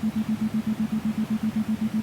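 Background music: a single low synthesizer tone pulsing evenly, about seven times a second, with no melody.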